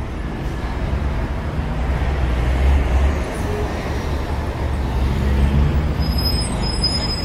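Road traffic noise: a steady low rumble of vehicles that swells a little twice.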